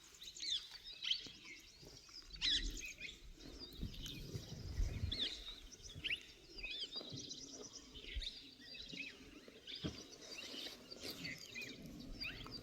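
Forest birds chirping and calling, many short chirps that rise and fall, repeated throughout, with a few low thumps underneath.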